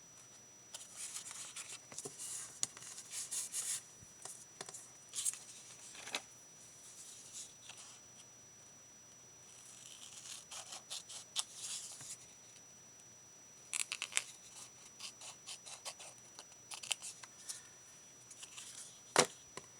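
Paper being handled at a craft table: crisp rustling, small clicks and taps in several short bouts with quiet gaps between them.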